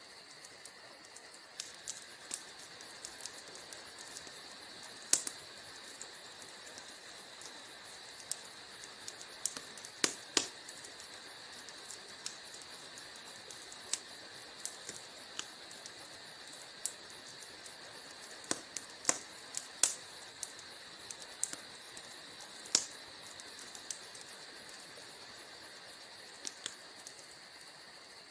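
Wood fire crackling in a fireplace: sharp pops and snaps at irregular intervals over a steady high hiss, with a few louder pops scattered through.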